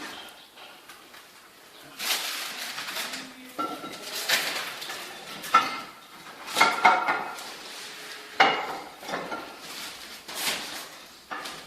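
Glazed ceramic fireplace tiles clinking, knocking and scraping against each other as they are handled and set down in a dry lay-out, several sharp knocks ringing briefly.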